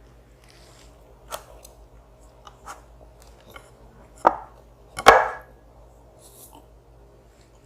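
Eating utensils knocking against a dish: a few light taps, then two louder knocks about four and five seconds in.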